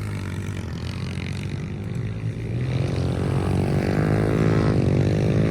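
Several pit bike engines revving hard as a race gets under way, growing steadily louder, with many engine notes rising and falling in pitch over one another from about halfway in as the bikes accelerate and change gear.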